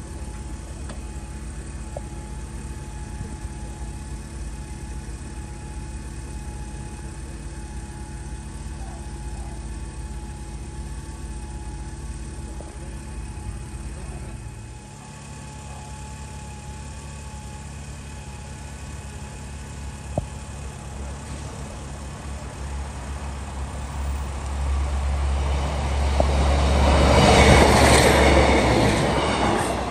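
A steady low hum for the first half, then a Northern diesel multiple unit approaches and runs over the level crossing, growing louder to a peak a couple of seconds before the end and then easing off.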